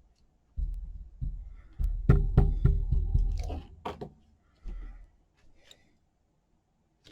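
A rubber stamp being pressed and tapped down onto paper on a tabletop: a series of dull knocks and thumps, bunched about two to three seconds in, with a few sharper clicks after.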